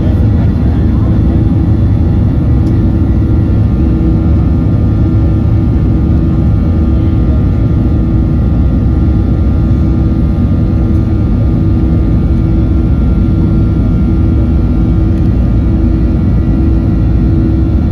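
Boeing 737-800 cabin noise heard from inside, its CFM56-7B engines and airflow making a loud, steady rumble with a few steady whining tones over it.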